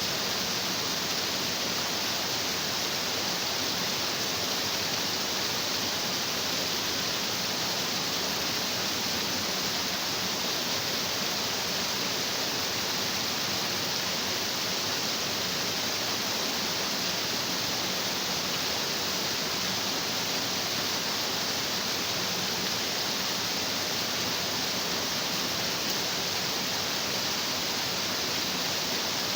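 Stream water rushing and splashing over rocks, a steady even rush with no let-up.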